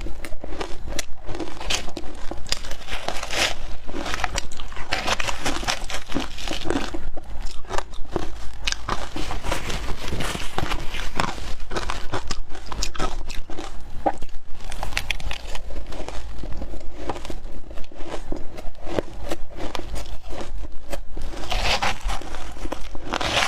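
Frozen matcha shaved ice being crunched and chewed, a dense, continuous run of crackling crunches.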